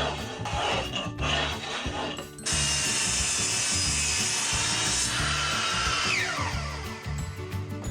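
Rhythmic rubbing strokes on wood for about two seconds, then a power tool starts abruptly and runs at high speed on wood, changes tone, and winds down with a falling whine, over background music with a steady beat.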